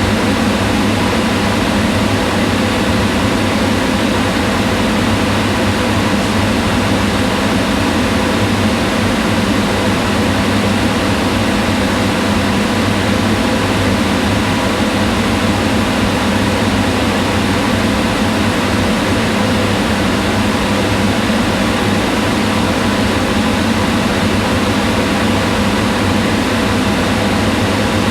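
Kitchen range hood exhaust fan running steadily: an even rushing of air with a low hum.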